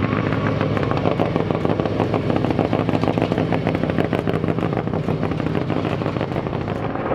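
Off-road race vehicle engine running hard at high revs, a dense rapid pulsing held steady throughout.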